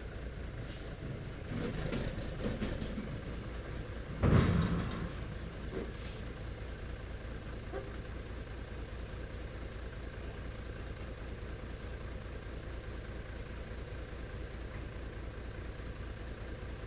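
Nissan Diesel/UD truck's diesel engine idling with a steady, even pulse. A short, loud burst of sound comes about four seconds in and dies away within a second.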